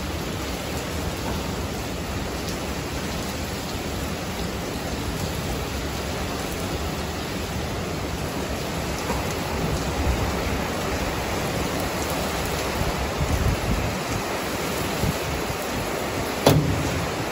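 Heavy rain pouring steadily in a storm, with wind gusts buffeting the microphone in the second half. A single sharp knock sounds near the end.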